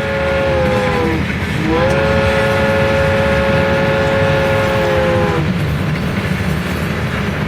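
Train horn sounding two blasts of several held tones together over a steady low rumble: the first blast sags in pitch and stops about a second in, and a longer second one runs from about two seconds in until about five seconds in, sagging again as it ends.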